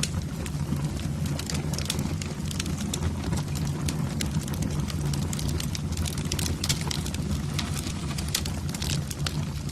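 Wood fire burning in a fireplace, crackling with frequent sharp irregular pops over a steady low rumble.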